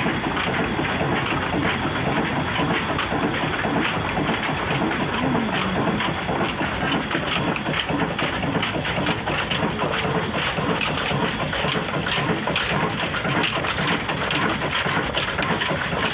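Old Ruston Hornsby diesel engine running steadily, buried in a dense, even rushing noise like heavy rain or pouring water.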